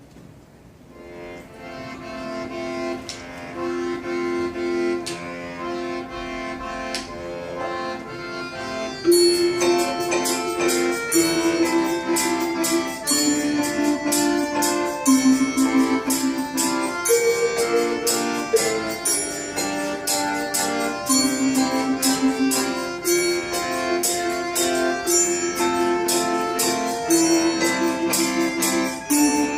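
Instrumental Russian folk song played by a folk ensemble: a melody of steady held notes starts softly. About nine seconds in, more instruments with sharp, quick strokes join and it gets louder.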